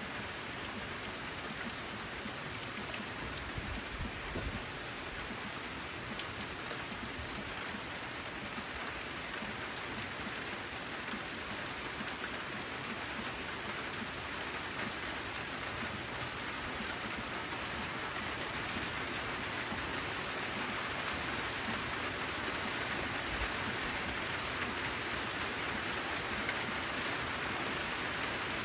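Steady rain on a corrugated zinc roof: a dense, even patter with scattered single drops ticking out, growing slightly louder toward the end. A brief low rumble comes about four seconds in.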